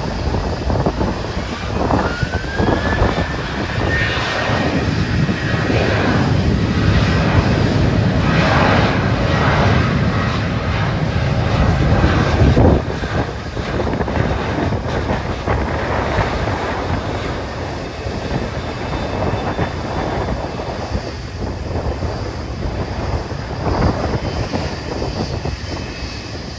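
Jet aircraft engines running at high power, with a turbine whine that rises about two seconds in and then holds. The noise is loudest for the first half and eases a little after about 12 seconds. Heavy wind buffets the microphone throughout.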